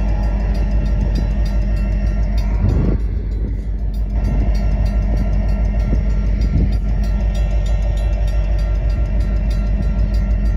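Loaded Union Pacific freight train of hopper cars rolling past, a steady loud rumble with a running clatter of clicks from the wheels on the rails.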